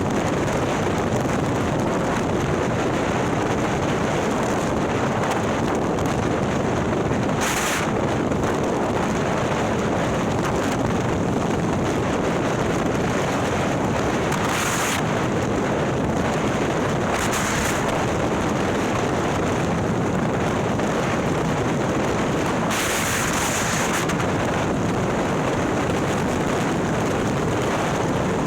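Harley-Davidson Milwaukee-Eight V-twin, bored out to 130 ci with a ThunderHeader exhaust, running at a steady cruise with wind rushing over the microphone. A few brief hissing swells of wind sound over it.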